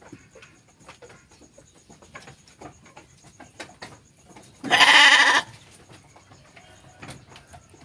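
A sheep bleats once, a single loud, wavering bleat lasting under a second about five seconds in, over faint scattered clicking and rustling.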